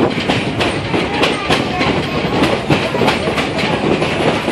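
Great Smoky Mountains Railroad excursion train rolling along, its wheels clacking over the rail joints with a steady rattling rumble.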